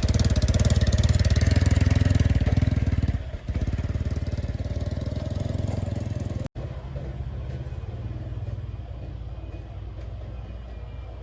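Small two-stroke cultivator engine running, fast and loud for about three seconds, then dropping back to a lower, steadier run.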